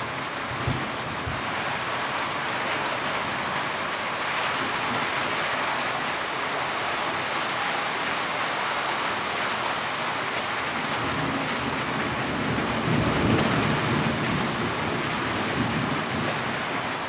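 Heavy rain falling steadily, with a low rumble of distant thunder swelling up about two-thirds of the way through.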